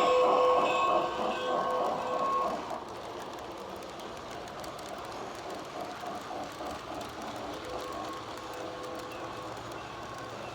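G scale Santa Fe Hudson model locomotive's Phoenix Sound steam sound system: the whistle tones die away about two and a half seconds in, then the locomotive runs on with quieter rhythmic steam chuffing and wheels clicking over the track.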